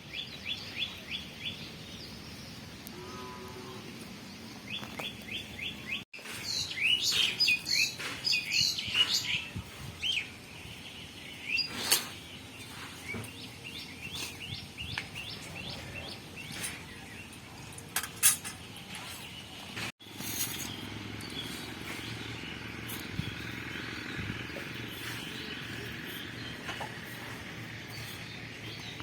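Small birds chirping in quick repeated trills, with a few sharp clicks. After a cut about two-thirds of the way in, a steady high hiss takes over.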